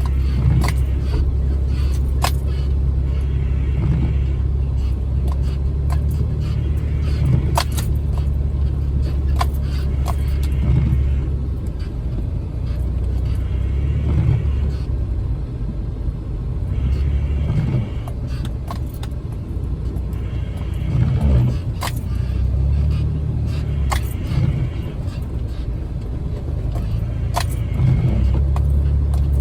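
Jeep Wrangler driving slowly over a rough trail: a steady low engine drone, rising and falling every few seconds, with many sharp knocks and rattles as it goes over bumps.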